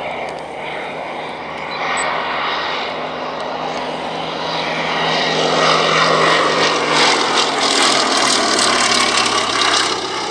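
Propeller-driven aircraft flying past, its engine drone building to a peak and easing off near the end as it passes.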